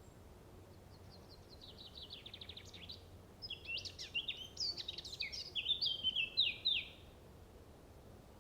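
Songbird singing: a fast run of high notes, then a string of varied chirping phrases that stops about seven seconds in.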